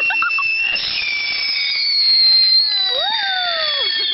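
Whistling fireworks: several high, steady whistles sliding slowly down in pitch, with a burst of crackle about a second in and a shorter whistle that rises and then falls near the three-second mark.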